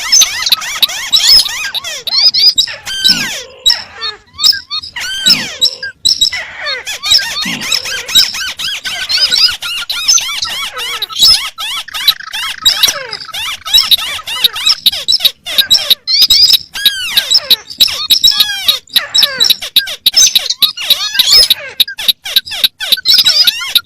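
Several paddy-field crakes, among them the white-browed crake, calling all at once: dense squeaky chattering notes overlapping one another out of step, as in a mixed lure track of crake calls.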